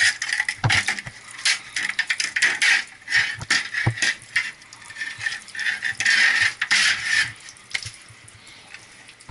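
Rattling and scraping of a clogged metal pump strainer basket being worked loose and cleaned out: a dense run of sharp clicks and knocks, with a longer hissing scrape about six seconds in.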